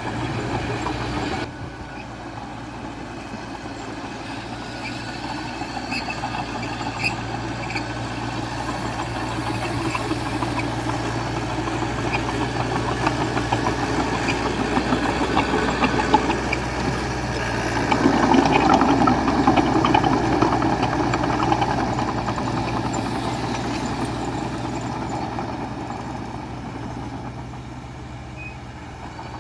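Small crawler bulldozer's diesel engine running while working. It grows louder toward the middle, is loudest a little past halfway, then eases off, with light clicks scattered through.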